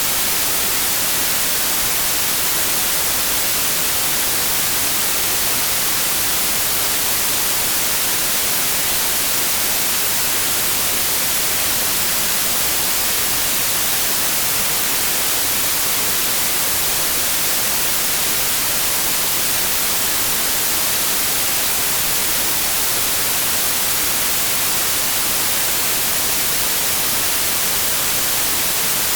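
Continuous white noise: an even, unbroken hiss, strongest in the high frequencies, with no change in level.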